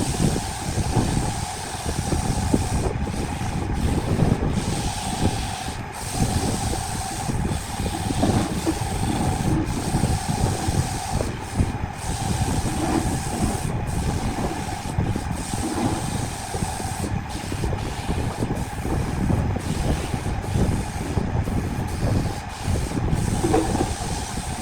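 Wood lathe running: a steady hum under rough, uneven scraping noise that swells and dips throughout.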